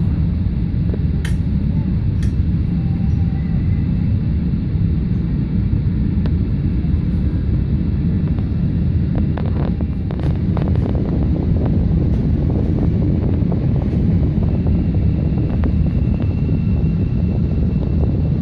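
Chicago 'L' elevated train heard from inside the car while it runs: a steady low rumble with scattered clicks and knocks, a cluster of them about ten seconds in.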